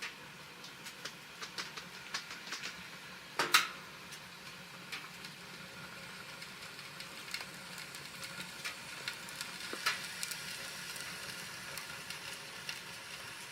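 Wood fire crackling inside a camping tent wood stove: a soft steady hiss of burning with irregular small pops and snaps, and one louder sharp crack about three and a half seconds in.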